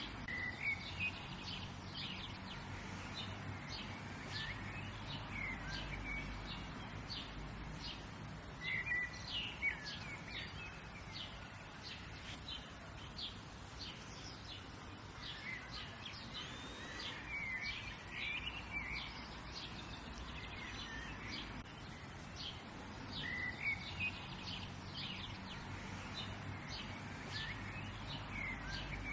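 Several wild birds chirping and calling throughout, many short chirps with a few longer warbled phrases, over a steady low outdoor background noise.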